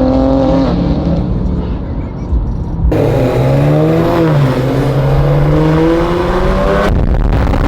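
Car engine accelerating, its pitch rising, dropping once as it shifts gear about four seconds in, then rising again. It gets suddenly louder and rougher from about three seconds in until near the end.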